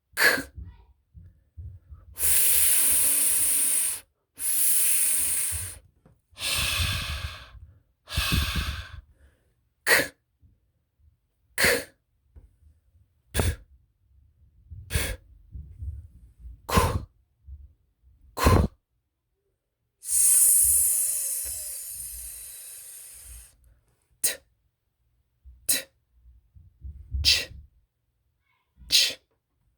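A man saying English voiceless consonant sounds one at a time, with no voice behind them, only breath. They come as long hissing sounds like s, sh and f, and short puffs of air like p, t and k, each followed by a pause.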